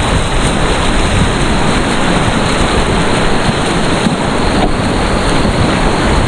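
Whitewater rapid rushing loudly and steadily, a dense even wash of moving water with no breaks.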